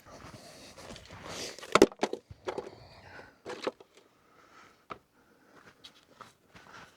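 Scattered knocks and clatter of someone moving about and handling gear, with one sharp knock just under two seconds in and a few lighter ones after.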